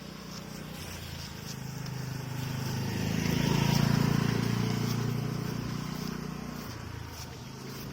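A motor vehicle passing by, its engine growing louder to a peak about four seconds in and then fading away.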